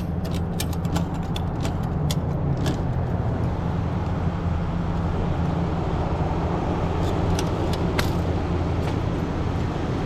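Tow truck's engine running steadily as it drives with a repossessed vehicle in tow, with light clicks and rattles from inside the cab, most of them in the first few seconds.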